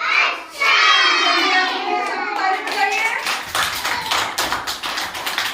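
Children's high voices chanting a drawn-out final line of a rhyme, followed about halfway through by a round of hand clapping.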